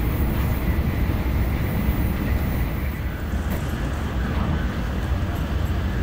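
Steady running noise inside a Tokaido Shinkansen passenger car at speed: a low, even rumble from the wheels and track with a rushing hiss over it.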